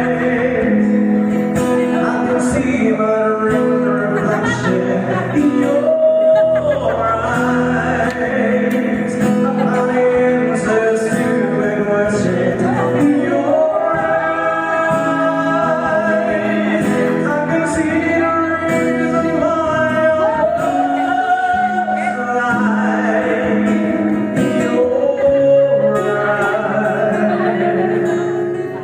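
Live band music: a song with a sustained, singing melody line over a steady bass accompaniment.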